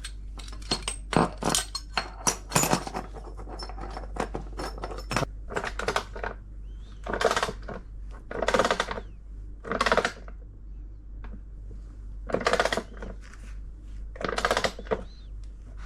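Steel washers, bolt and socket clinking as a bearing-press puller is fitted, then a socket ratchet turned in short clicking strokes, five of them, tightening the bolt to press a new drum bearing into a washing machine tub.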